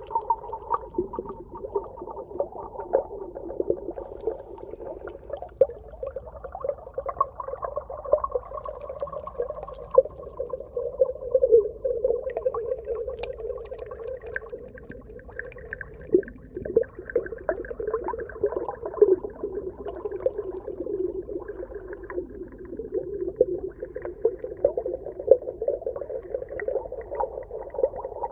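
Underwater ambience: a steady, muffled hum with a dense, irregular crackle of small clicks and pops running through it.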